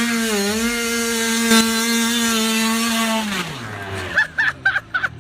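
A small motorcycle engine revving: it climbs in pitch, holds steady high revs for about three seconds, then the revs drop away. Short high chirping sounds follow near the end.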